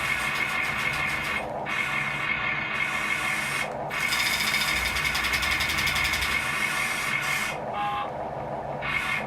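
Radio-controlled construction machine's small electric motors and gearing whining as it works, the whine cutting out and coming back in short spurts.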